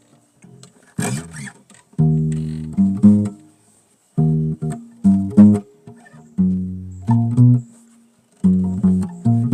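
Bass guitar played solo: short phrases of plucked low notes separated by brief pauses.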